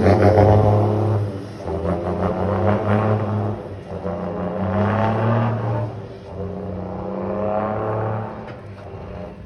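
Scania 440 truck's diesel engine revved through a button-switched 'singing' exhaust, giving a droning horn-like tone. It swells about four times, each swell lasting a second or two.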